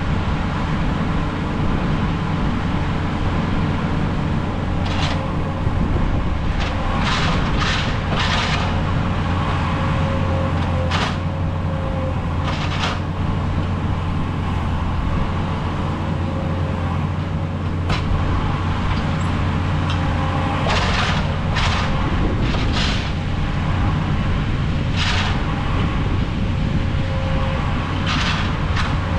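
Skid steer diesel engine running steadily under load, with a whine that comes and goes. Short sharp clanks and squeaks from the working machine come at irregular intervals throughout.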